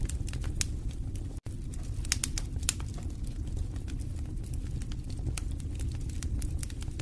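Wood fire burning in a fireplace: a steady low rumble of flames with irregular sharp crackles and pops from the burning logs. The sound cuts out for an instant about a second and a half in.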